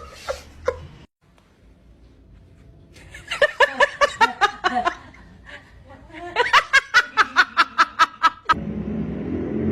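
Laughter in two bouts of quick, repeated ha-ha pulses, the second bout faster and longer. Near the end a steady hiss with a low hum takes over.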